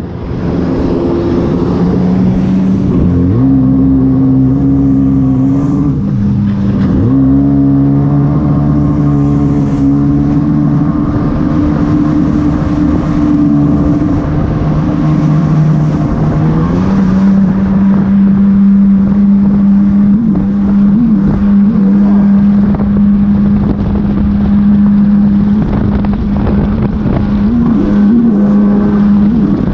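Jet ski engine running under way, with a steady hum over a rushing wash. Its pitch shifts several times, then rises about halfway through and holds steady.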